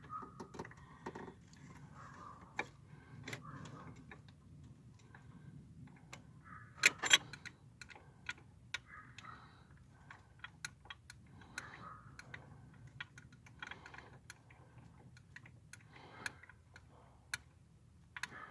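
Scattered small metallic clicks and taps of bolts, nuts and a mounting plate being handled and fitted by hand on a turbo wastegate actuator, with a sharp double clack about seven seconds in.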